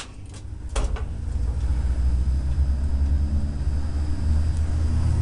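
The 1947 Dodge rat rod truck's engine running with a steady low rumble, after a short knock about a second in.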